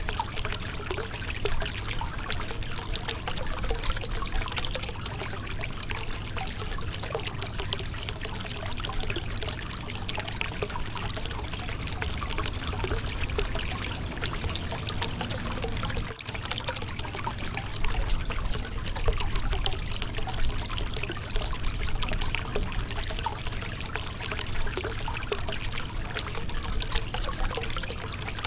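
River water running and splashing over a rocky bed: a steady, continuous babble of flowing water.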